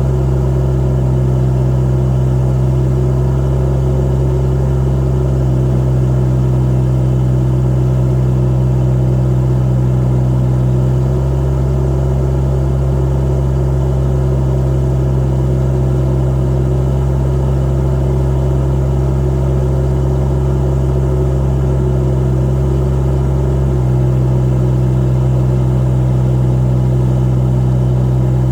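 Kubota D902 three-cylinder diesel engine of a 2-ton mini excavator running steadily under work. Its low note shifts twice, about a third of the way in and again near the end.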